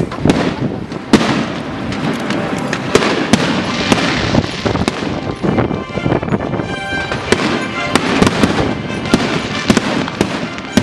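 Fireworks display going off continuously: a dense run of sharp bangs, pops and crackles over a steady hiss, with a rapid crackling rattle about halfway through.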